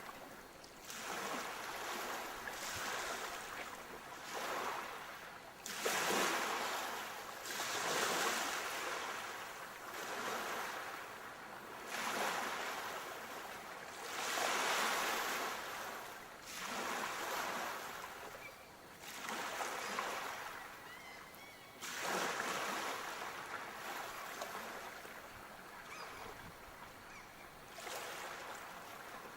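Sea waves breaking and washing in, one surge after another about every two seconds, a few of them louder and breaking more sharply.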